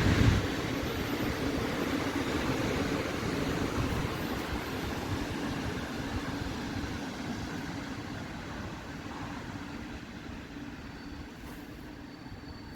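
Electric-locomotive-hauled passenger train rolling on, its wheel and carriage rumble fading steadily as it moves away.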